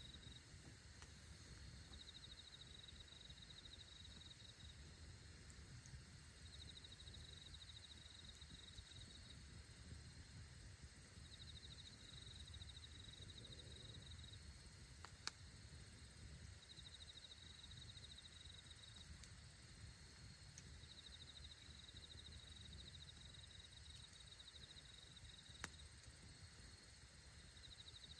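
Faint insect trilling, a high pulsed trill in runs of about two seconds that repeat every few seconds, with two sharp campfire pops about halfway through and near the end.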